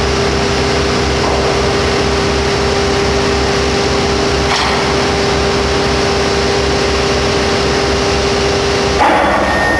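Heavy machinery running steadily and loudly: a constant mid-pitched tone over a low, evenly pulsing throb. The sound changes abruptly about nine seconds in.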